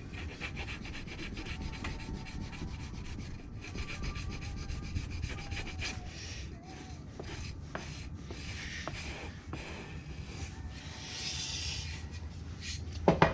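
Moist foundry sand being packed into a mould with a hand ramming tool: a run of repeated scraping, packing strokes.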